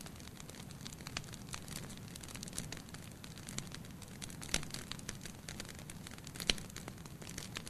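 Wood fire burning in a fireplace with a steady low hiss and many small crackles. Two louder pops come about four and a half and six and a half seconds in.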